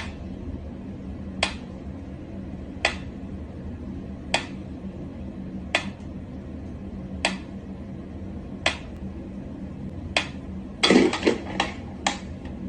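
Light clinking knocks of something hard, evenly spaced about one and a half seconds apart, then a quick flurry of several louder ones near the end, over a steady low hum.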